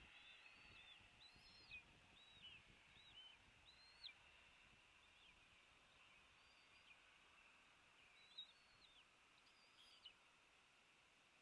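Faint, high bird chirps: short arched notes, several close together in loose clusters, over a steady outdoor hiss.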